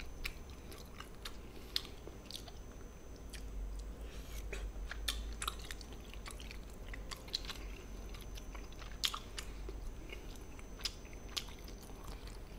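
A person chewing and biting food, heard as many small, irregular clicks.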